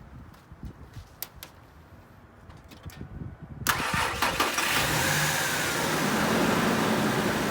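A few faint clicks, then a little over halfway through a 2003 Ford F-150's 4.2L V6 starts suddenly and settles into a steady idle, with engine flush added to its oil.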